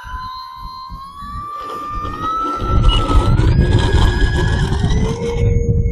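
Electric motor and propeller of an FMS Cessna 182 RC model plane whining in flight, the pitch rising in steps as the throttle is opened. Heavy wind buffeting on the microphone rumbles in from about halfway through.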